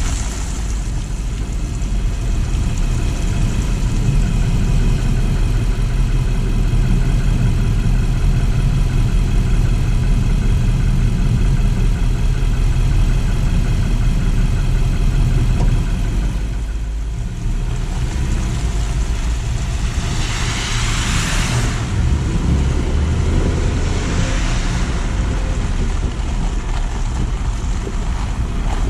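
A car driving: engine running with a steady low rumble of road noise, easing off briefly past the middle, followed by two short surges of hiss.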